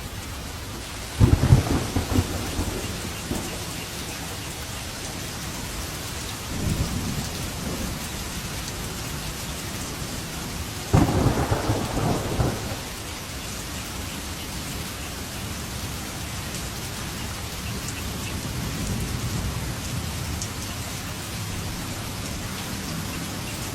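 Steady rain with thunder: two sharp cracks of thunder rumbling for a second or two, about a second in and about eleven seconds in, with a fainter rumble between and a soft low roll later on.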